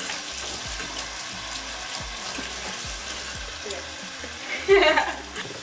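Kitchen tap running into a sink with a steady hiss, with ground beef sizzling in a frying pan behind it. About five seconds in, a brief loud voice close to the microphone.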